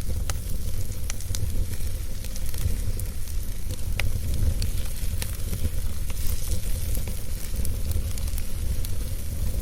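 Wood fire burning: a steady low rumble of flame under a light hiss, with scattered sharp crackles and pops of the burning wood.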